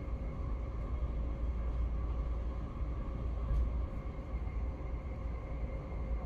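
Moving train heard from inside the carriage: a steady low rumble with a faint steady whine above it.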